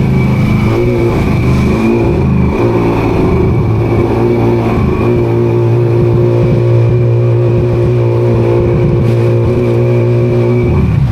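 An engine running at a steady, loud pitch. Its note dips and wavers briefly about two seconds in, then settles back.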